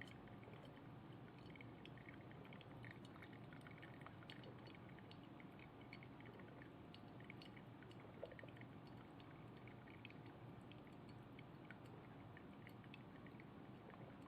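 Single-cup drip coffee maker brewing: faint trickling and dripping of coffee into the glass, with small irregular ticks throughout.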